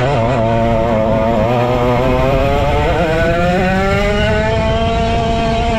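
Vintage go-kart's 135cc Sudam engine running hard on track. Its pitch wavers up and down for the first three seconds, then climbs steadily as the kart accelerates.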